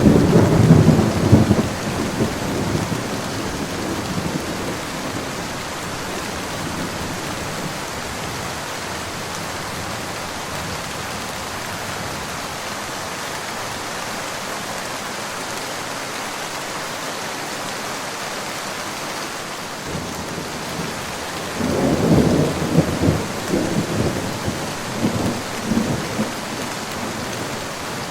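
Steady rain falling, with a roll of thunder rumbling at the start and dying away over a few seconds. A second rumbling roll of thunder comes in about three-quarters of the way through and lasts several seconds.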